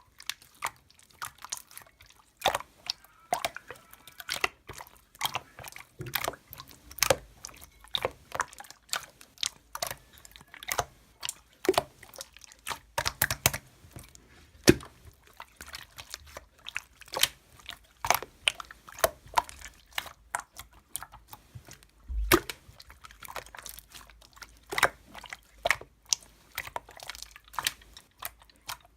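Slime being squished and kneaded by hand: a continuous, irregular run of wet clicks and pops.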